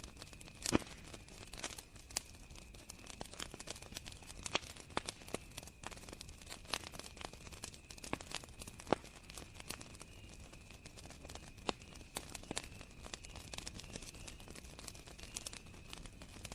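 Campfire crackling, with irregular sharp pops and snaps, over a steady high chirring of crickets.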